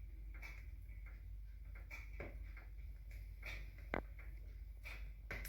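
Firewood crackling in a freshly lit wood stove: scattered sharp pops, the loudest about four seconds in.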